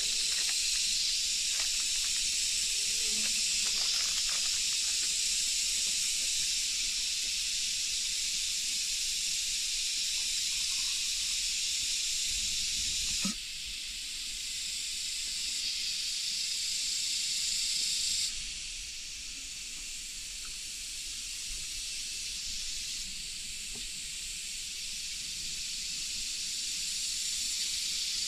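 Steady hiss of rain falling in forest. It drops suddenly in level about thirteen seconds in and shifts again about five seconds later.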